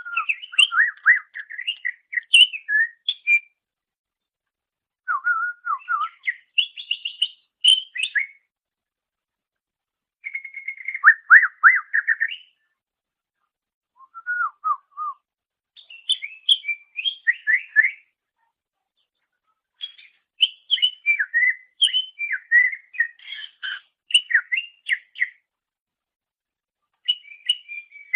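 Greater green leafbird (cucak ijo) singing: about seven short phrases of fast, varied whistles and chirps, each broken off by a pause of a second or two.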